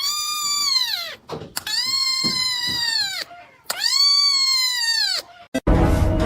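A cat giving three long meows, each held for over a second and dropping in pitch at its end.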